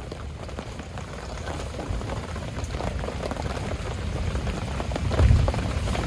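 Heavy rain falling in a dense, irregular patter that grows louder, with a low thump about five seconds in.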